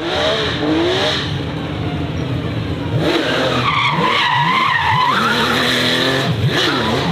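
Formula 1 car spinning its rear tyres, with a loud wavering tyre squeal and the engine revving up and down repeatedly, as in doughnuts or a burnout.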